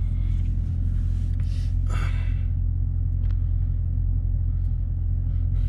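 Dodge Challenger Scat Pack's V8 engine running at a low, steady rumble while creeping in a traffic jam, heard from inside the cabin.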